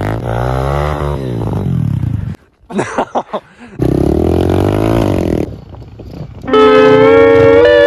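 Apollo pit bike's small engine revving, its pitch sweeping up and down; it falls away with a few sputtering blips for about a second, then revs again. Slide-guitar music comes in loudly near the end.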